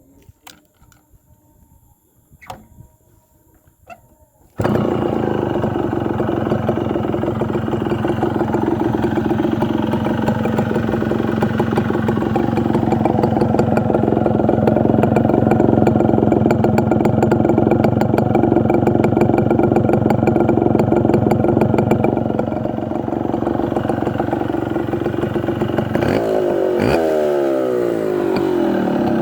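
Yamaha YB100's single-cylinder two-stroke engine, its exhaust open with the dB killer baffle removed: a few faint clicks, then the engine comes in suddenly a few seconds in and idles steadily, before being revved up and down several times near the end.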